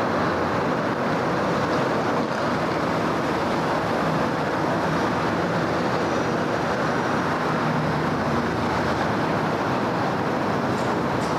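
Steady city street traffic: a continuous, even wash of engine and tyre noise from passing vehicles, with no single event standing out.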